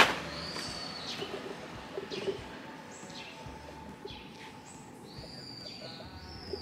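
Small birds calling: a series of quick, high, falling chirps and, about five seconds in, a longer whistled note that drops at its end. A sharp knock comes right at the start.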